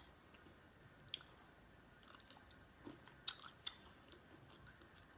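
Faint close-up chewing of seafood, with a few small sharp clicks and smacks of mouth and fingers, the clearest near the middle.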